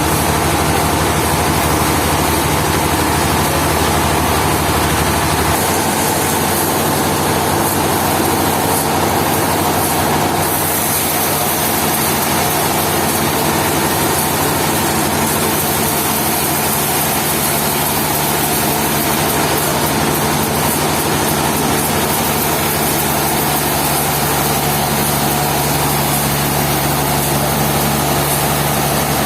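Heavy engine running steadily, its low hum shifting about five seconds in, with a hiss over it.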